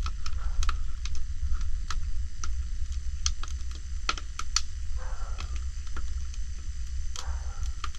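Freshly lit wood fire crackling, with irregular sharp pops and snaps, over a steady low rumble.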